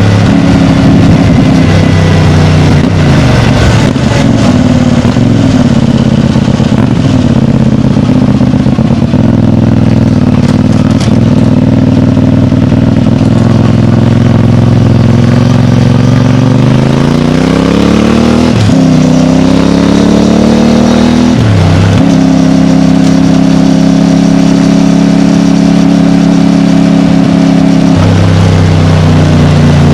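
CFMOTO 450MT's parallel-twin engine running through its stock exhaust. The engine note wavers, then climbs in pitch, dips sharply twice in quick succession, holds a steady higher tone and drops back near the end.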